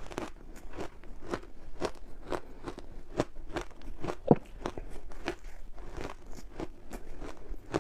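Crunchy ice being bitten and chewed close to the microphone: a steady run of sharp crunches and cracks, about two or three a second, with a louder crack about four seconds in.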